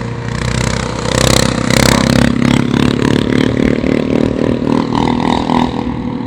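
Small motorcycle engine running under throttle while riding, its pitch held fairly steady, with wind rushing over the microphone.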